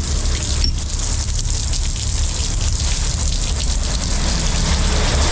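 Water running and splashing, over the steady low rumble of an idling truck engine.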